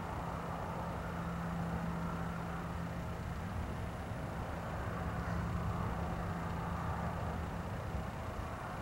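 A steady, distant low roar of unknown origin in the sky, the 'strange roaring noise' heard over the area, with a constant low hum under it.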